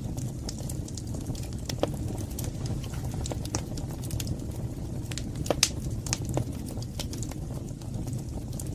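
Wood fire burning in a fireplace: a steady low rumble of flames with irregular sharp crackles and pops, the loudest pop about five and a half seconds in.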